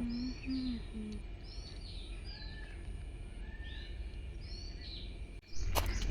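Wild birds calling outdoors: repeated short, curved chirping notes, with a few low hooting notes in the first second. Near the end a louder low rumble with sharp clicks cuts in.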